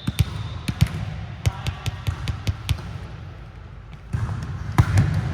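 An irregular string of sharp thuds and taps, a dozen or more, over a steady low rumble, with a quieter stretch about halfway through.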